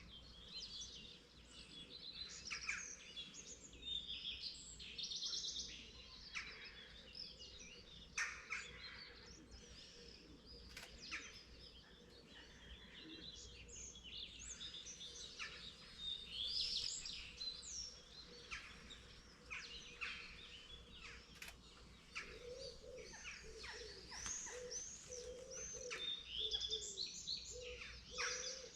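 Morning chorus of several songbirds: many overlapping chirps and short warbled song phrases, continuous throughout, over a faint steady low rumble.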